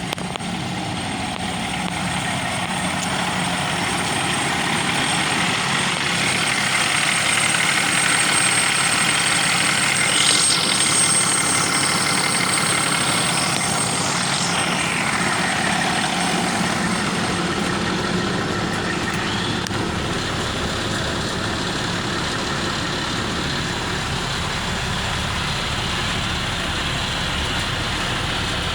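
2015 Peterbilt 320 roll-off hook truck's engine running steadily. It grows somewhat louder over the first ten seconds or so, then settles back.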